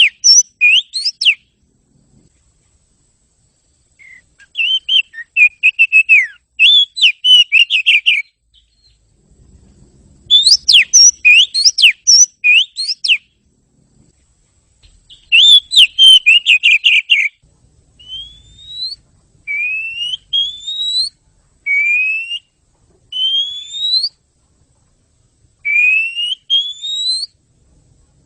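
Oriental magpie-robin (kacer) song. Several bursts of quick, varied chirping phrases are separated by short pauses. From about two-thirds of the way in, the song changes to a series of single rising whistles, one every couple of seconds.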